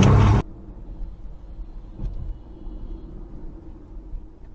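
Steady low rumble of a car on the move, fairly quiet. A louder sound with a rising pitch cuts off abruptly in the first half-second.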